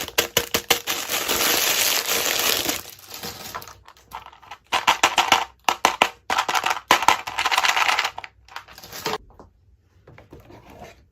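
Packaging being crinkled and rustled as miniature toys are unwrapped, with small clicks and taps of the contents. It comes in bursts and dies away about nine seconds in.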